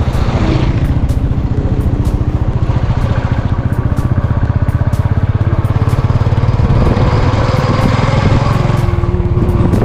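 Motorcycle engine running steadily under way, loud, with a rapid even beat of exhaust pulses.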